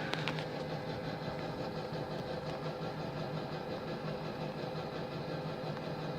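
Ford V10 gasoline engine of a Class A motorhome idling steadily, with a couple of sharp clicks right at the start.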